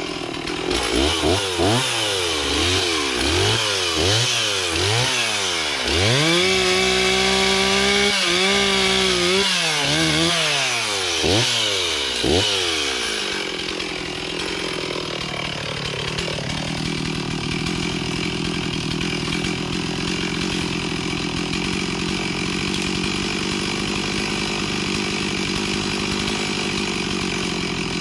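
Stihl two-stroke chainsaw revving up and down in quick repeated blips, held at high speed for a few seconds around the middle, then dropping to a steady idle for the second half.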